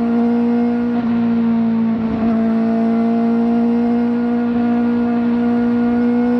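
Kawasaki ZX-4RR's 399 cc inline-four engine with a slip-on exhaust, held at a high, nearly steady pitch under throttle, dipping briefly about one and two seconds in and creeping slightly higher toward the end.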